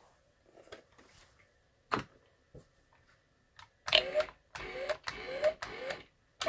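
Remote-control toy Scania fire truck: a few light clicks, then four short whirs about half a second apart, each rising in pitch.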